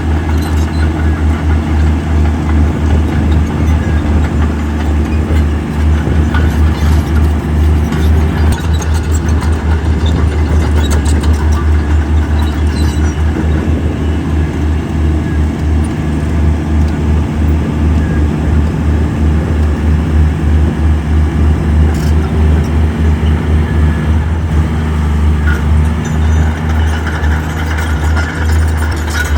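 Heavy diesel engine of earthmoving equipment running steadily with a deep, fast-pulsing throb, and a few sharp clanks now and then.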